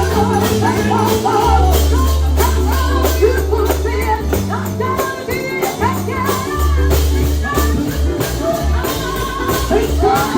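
Live gospel music: voices singing over a heavy bass line, with a tambourine shaken on a steady beat.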